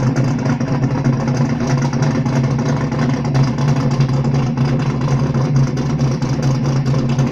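The Murder Nova, a Chevrolet Nova street/drag car with a big V8, idling steadily with a loud, rapidly pulsing exhaust.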